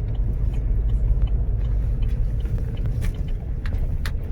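Steady low rumble of a motor vehicle, with a few faint clicks in the second half.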